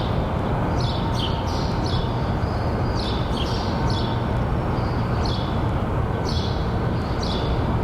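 Steady rushing background noise, with birds chirping over it again and again.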